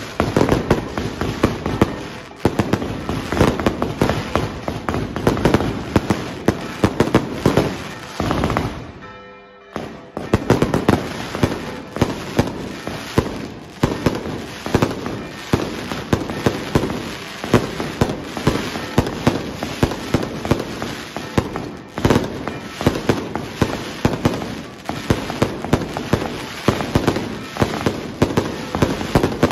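Fireworks barrage: a dense, continuous run of rapid sharp cracks and bangs, with a brief lull about nine seconds in before the bangs resume.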